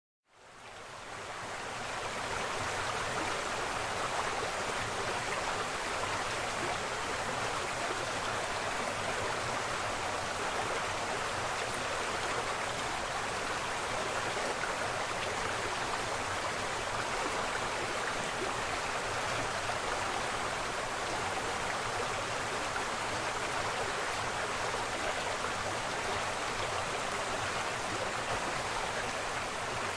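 Waterfall: steady rushing and splashing of falling water, fading in over the first couple of seconds.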